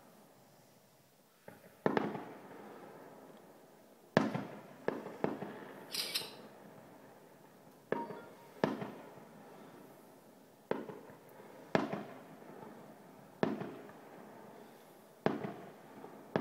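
Aerial fireworks bursting: about a dozen sharp bangs at irregular intervals, each trailing off in a rolling echo. A brief high hiss comes about six seconds in.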